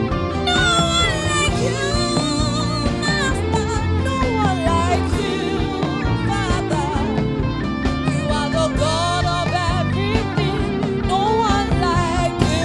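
Gospel worship music from a band playing steadily, with a wavering melodic lead line above a full, sustained backing.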